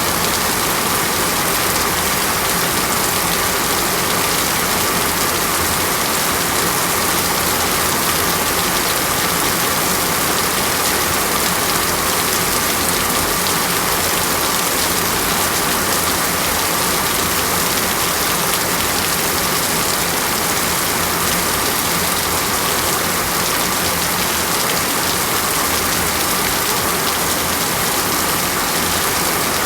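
Steady heavy rain falling in a tropical rainforest, an even hiss of drops with no thunder or other events.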